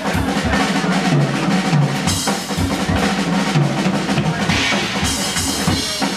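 Live jazz band playing with the drum kit to the fore: steady kit drumming over low pitched bass notes, with cymbals building into a dense wash from about two seconds in.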